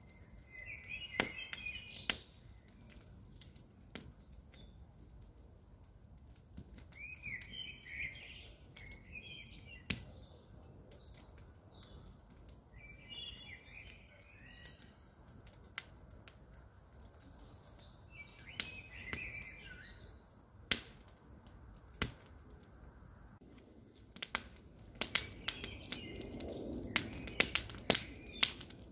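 Campfire crackling, with sharp pops of burning wood scattered throughout and coming thicker near the end. Birds chirp in short twittering phrases every few seconds behind it.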